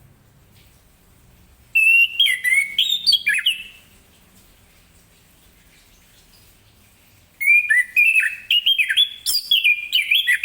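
Orange-headed thrush singing in two loud bouts of quick, varied whistled phrases, one about two seconds in and a longer one from about seven seconds, with a short pause between.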